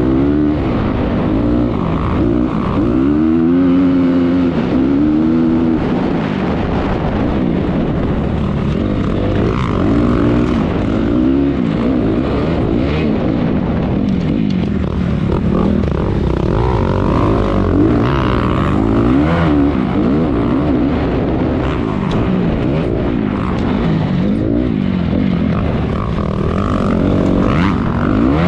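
Honda 250R motocross bike engine racing around a track, revving hard with its pitch repeatedly rising and falling as the throttle is worked and gears are changed.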